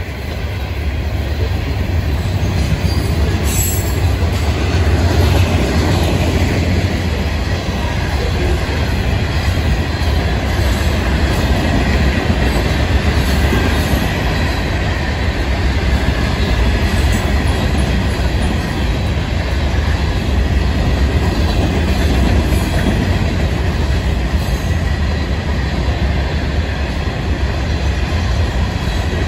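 Florida East Coast Railway freight cars, boxcars and rock hoppers, rolling past at a grade crossing: a steady, loud rumble of steel wheels on rail.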